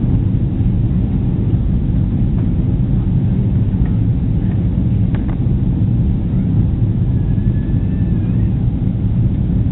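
Airliner cabin noise: a steady low rumble from the jet engines and airflow.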